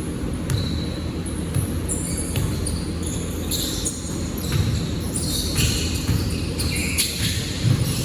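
Basketball bouncing on an indoor court during a game, with short high squeaks scattered through.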